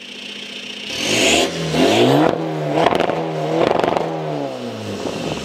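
Stage 3 tuned Audi A4 B6 1.9 TDI four-cylinder diesel with a bigger turbo, revved several times while standing. The pitch climbs and drops with each blip, with a few sharp cracks among them, and falls back toward idle near the end.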